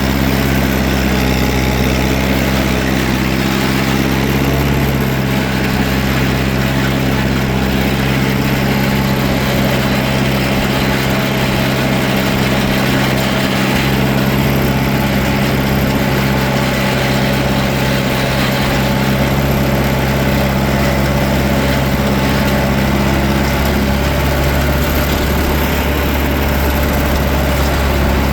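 Tractor engine running steadily at a constant, low speed, its note unchanging, with a slight change in tone near the end.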